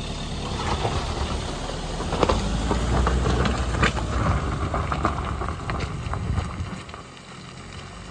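Car driving slowly on a muddy dirt road: a low engine and tyre rumble that swells and then eases off near the end, with scattered knocks and clunks.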